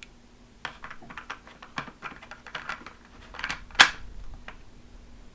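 Hard plastic parts of a Play-Doh pizza playset clicking and knocking together as the pizza pan is fitted onto the cheese grater: a run of light clicks, then one sharper click a little under four seconds in.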